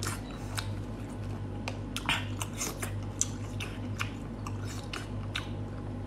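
Close-up wet chewing and lip smacking while eating soft, chewy sea snail meat, with irregular moist clicks from the mouth, one a little louder about two seconds in.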